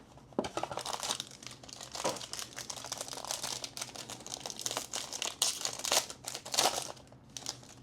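Plastic wrapping crinkling and tearing in irregular bursts as a box of trading cards is unwrapped and opened by hand.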